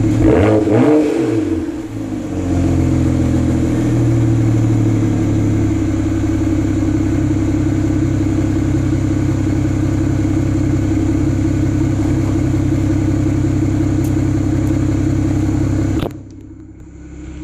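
A BMW N54 twin-turbo inline-six, exhausting through 335is mufflers, blips to low revs, rising and falling in pitch, then settles into a steady idle. About sixteen seconds in the sound drops away sharply.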